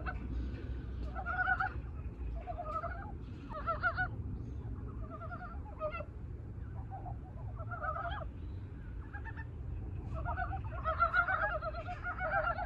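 Chorus of Korean brown frogs (mountain frogs) giving short, pulsed, clucking mating calls in overlapping bursts, busiest near the end, over a low steady rumble. These are males' spring breeding calls after hibernation.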